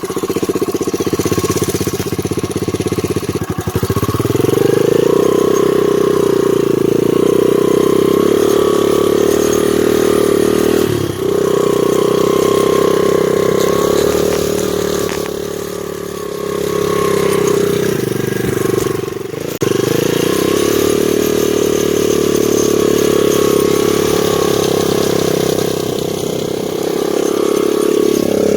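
A 2001 Honda XR100R dirt bike's small single-cylinder four-stroke engine running steadily while the bike is ridden, with the engine note dipping briefly a few times.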